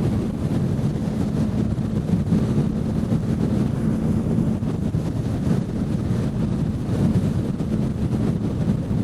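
Motorcycle engine running at a steady cruise, its low hum held at an even pitch, under heavy wind noise on the helmet microphone.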